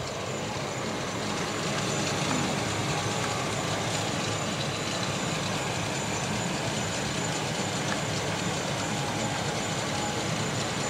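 Steady low rumble of an idling car engine, even throughout and slightly louder from about two seconds in.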